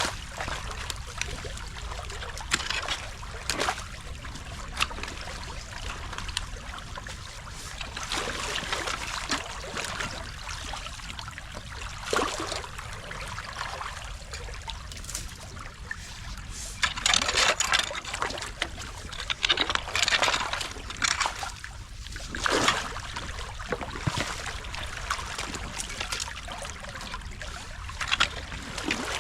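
Water trickling and splashing through a beaver dam as it is being broken open, with scattered cracks and splashes from sticks and mud being pulled out. A run of louder splashes comes about two-thirds of the way in.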